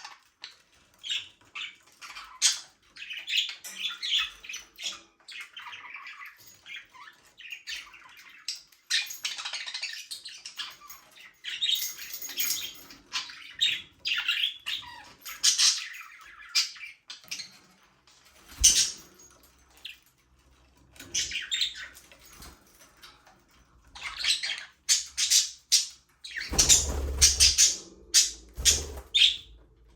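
A flock of budgerigars chirping and warbling, with dense chattering stretches and short gaps. The calls grow louder and sharper in the last few seconds, with some low thumps mixed in.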